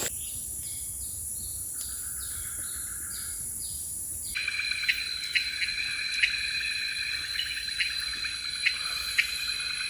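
Tropical forest ambience of insects and birds calling. For the first four seconds a high chirp repeats two or three times a second; then a steady high insect drone with short sharp chirps over it.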